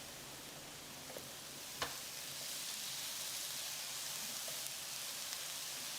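Diced red bell pepper, asparagus and mushrooms sizzling gently in olive oil in a frying pan as they are stir-fried. A single light click comes just before two seconds in, and the sizzle swells slightly after it.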